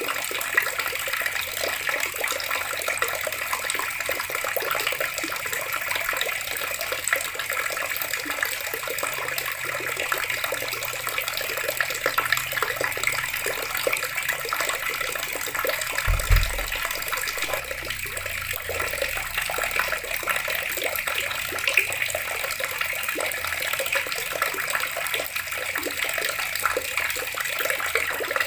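Water running steadily from a tap and splashing, with a brief low thump about halfway through.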